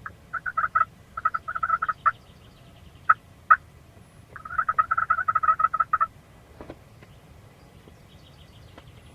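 Turkey calls: two short runs of rapid, clipped notes, then two single sharp notes, then a longer run of fast notes lasting about two seconds.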